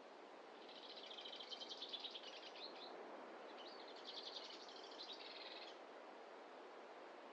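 A small songbird singing two rapid, high trilling phrases of about two seconds each, the second starting just over a second after the first ends, over a steady faint background hiss.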